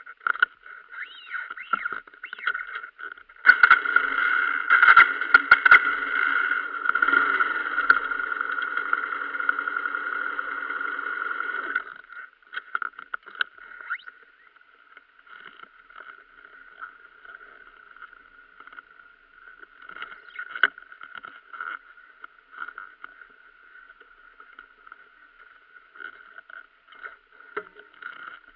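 Motorbike engine running while the bike stands still. It grows louder and fuller for several seconds from about three and a half seconds in, then drops back to a quieter steady run as the bike pulls away slowly.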